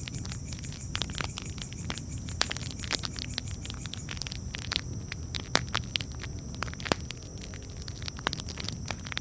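Campfire crackling: irregular sharp pops and snaps, a few louder ones, over a steady low rumble of the burning fire.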